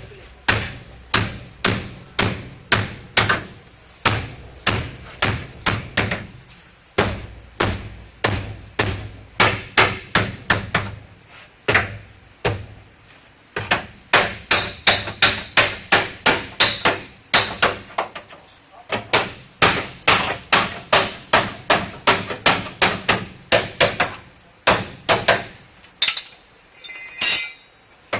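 Hammer blows on the sheet-metal body panels of a Toyota Hiace van, struck repeatedly at about two to three a second with a metallic ring, broken by a few short pauses. A brief burst of noise comes near the end.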